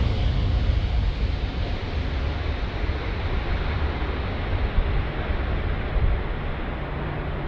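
Aircraft engine and rushing air noise at take-off, a steady deep rumble that slowly eases off and dulls.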